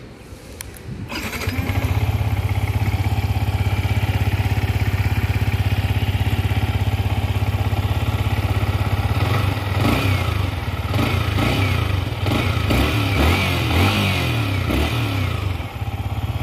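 Yamaha MT-15's 155 cc single-cylinder engine started about a second in and idling steadily, then revved up and down in a string of quick blips from about nine seconds in, settling back to idle near the end.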